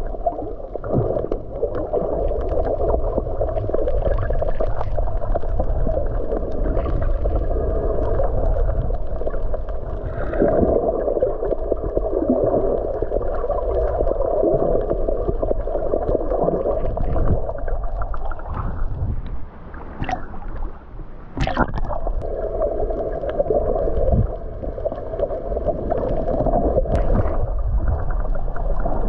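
Muffled, continuous rushing and gurgling water noise with a deep rumble underneath, broken by a few sharp clicks near the end.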